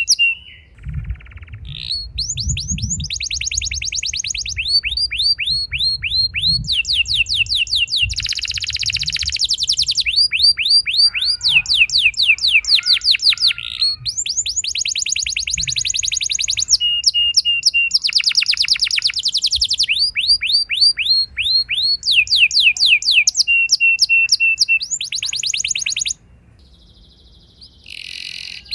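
Domestic canary singing a long rolling song: fast trills of repeated down-sweeping notes in sections that change every second or two, some held on a steady whistle. The song stops about 26 s in, leaving a fainter sound near the end.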